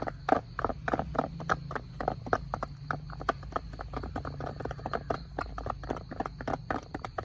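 Chickens pecking at food: many quick, irregular taps, several a second.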